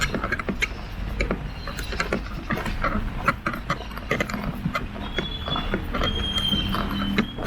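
Umbrella creaking and clicking as it is carried in the rain: irregular sharp ticks throughout, with two thin squeaks in the second half.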